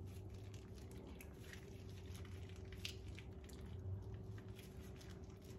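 Faint wet squishing and soft light clicks of thick homemade mayonnaise being squeezed and scraped into a container, over a faint steady hum.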